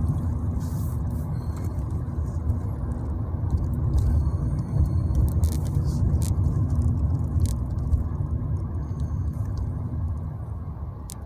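Steady low rumble of a car driving, road and engine noise, easing off slightly near the end.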